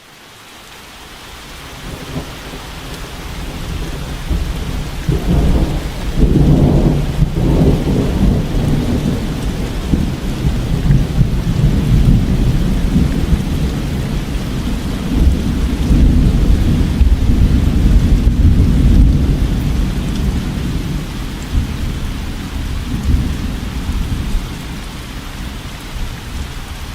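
Heavy rain with rumbling thunder, fading in over the first few seconds and then continuing loudly.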